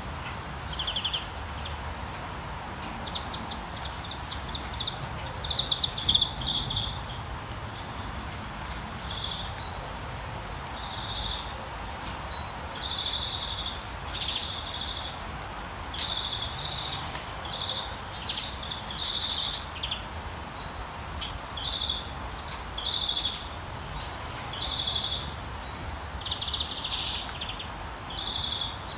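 Small birds chirping: short, high chirps repeated every second or two, over a steady hiss of rain.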